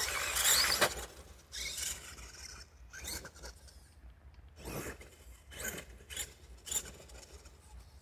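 A Redcat Everest 10 RC mega truck's electric motor whines with a gliding pitch for about the first second. Then it goes quiet, broken by short, irregular rasping scrapes spaced about half a second to a second apart.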